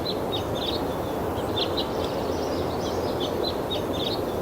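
Small birds chirping in short, repeated high calls over a steady low hum of outdoor background noise.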